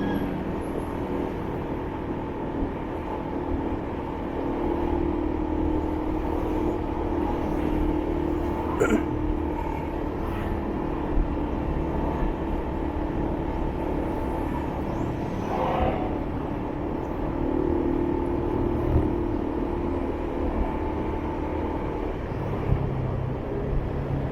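Motorbike engine running steadily while riding in city traffic, with road and traffic noise around it. There are two brief sharp sounds, about nine and sixteen seconds in.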